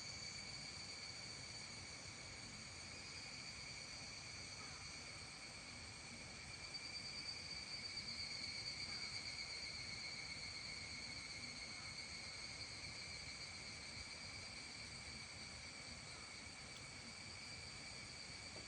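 Steady evening chorus of calling insects, a continuous high-pitched trill, with a faint low ambient rumble beneath.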